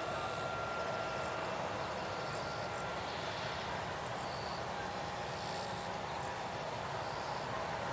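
Insects chirring steadily in a fast, even pulse, with a faint steady whine underneath.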